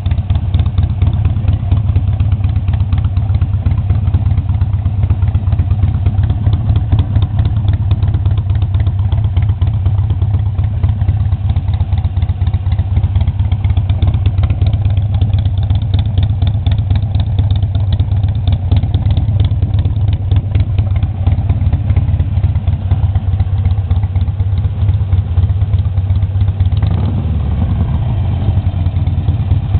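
Motorcycle engine idling steadily through Cycle Shack aftermarket mufflers, with a deep, even exhaust pulse. Near the end it revs up briefly.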